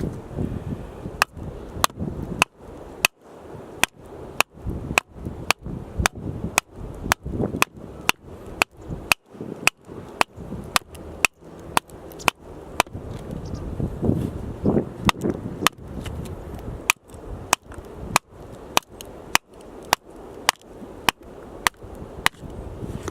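Axe strikes chopping firewood, a steady run of sharp cracks at about two a second.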